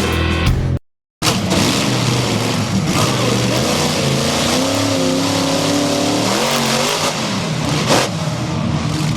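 Monster truck engine running loud and revving, its pitch climbing over a few seconds and then dropping back, over a steady rush of noise. A short cut to silence comes about a second in.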